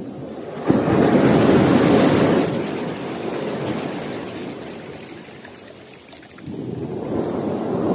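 Sea waves breaking on the shore: one wave crashes suddenly about a second in and washes out over a few seconds, and another builds near the end.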